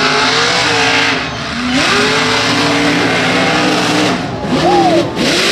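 A mega truck's engine running at high revs through a mud bog. The revs dip briefly about a second in, climb and hold again, then swing up and down in quick blips near the end, over a steady hiss of spinning tyres.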